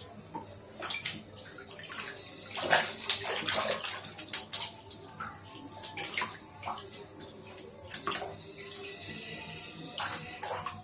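Water splashing and sloshing in a small tub as a lovebird swims and paddles in it, in irregular splashes.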